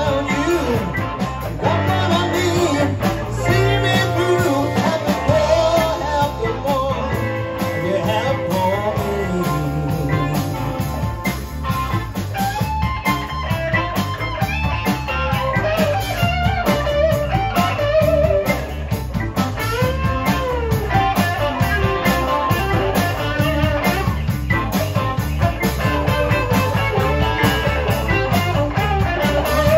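Blues-rock music with a guitar lead line bending in pitch over a steady drum beat and bass.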